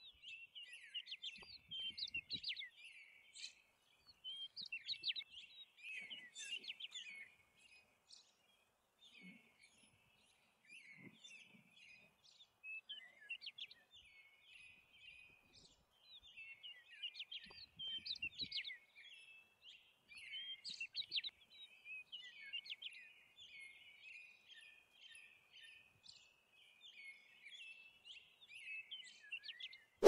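Faint chorus of small birds chirping and twittering in quick high notes, several overlapping, in flurries with short lulls between.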